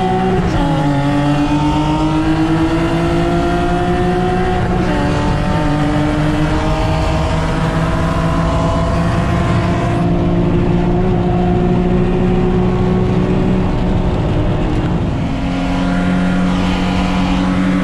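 Nissan 350Z's 3.5-litre V6 under hard acceleration, heard from inside the cabin, its pitch climbing steadily through the gears with short breaks at upshifts about half a second in and around five seconds in. Later the engine note levels off and eases slightly near the end.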